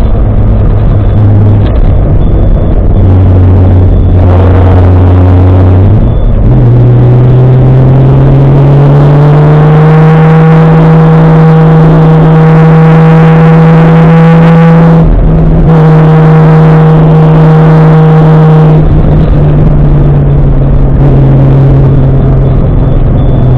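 Loud Toyota 1JZ-GTE turbocharged straight-six in a Nissan 240SX under way. The revs step up about six seconds in, climb and hold high, break briefly around fifteen seconds, then settle lower near the end.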